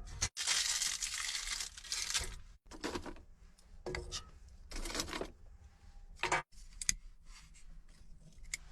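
Paper being crumpled and torn, with other handling rustles, in a string of short bursts: kindling made ready to light a homemade heating stove.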